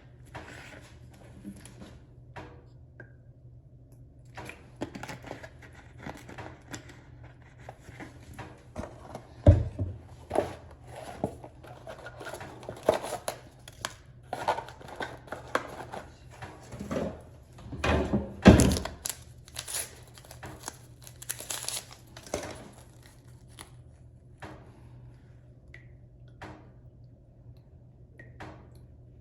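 Household handling noises: crinkling and rustling with scattered knocks, and two loud thumps, about ten seconds in and near the middle.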